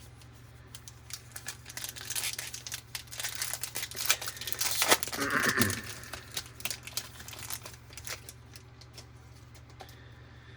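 Foil wrapper of a baseball card pack crinkling and tearing as it is opened, busiest in the middle seconds, with a brief pitched sound a little past halfway.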